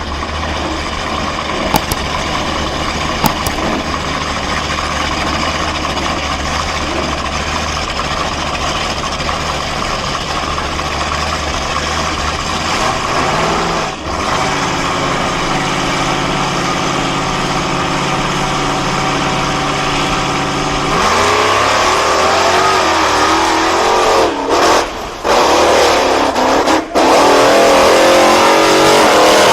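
BIGFOOT monster truck engine running at a steady low idle, stepping up to a higher steady speed about 13 seconds in, then revving hard and unevenly from about 21 seconds in.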